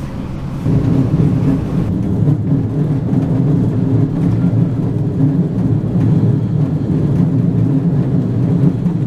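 Steady low rumble of a moving Israel Railways passenger train heard from inside the carriage: wheels and running gear on the track. It grows louder under a second in and then holds.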